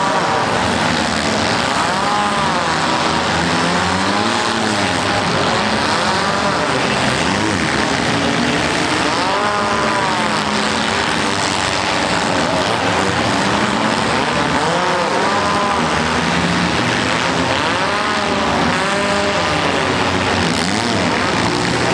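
Several compact demolition-derby cars' engines revving hard and unevenly, their pitches rising and falling over one another, over a constant din of engine and exhaust noise.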